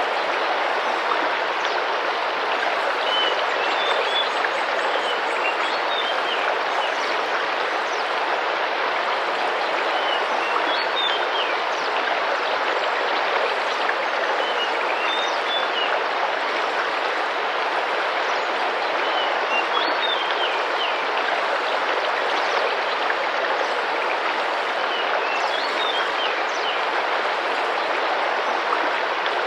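Tropical rainforest river water rushing and splashing steadily. Over it, a bird repeats a short chirping phrase about every four to five seconds.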